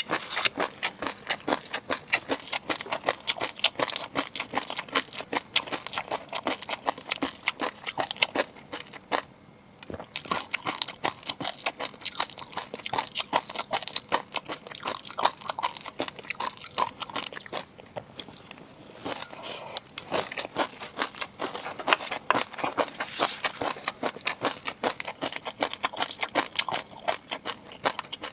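Close-miked ASMR eating: a person chewing and crunching food, a dense run of wet clicks and crackles, with brief pauses about nine and eighteen seconds in.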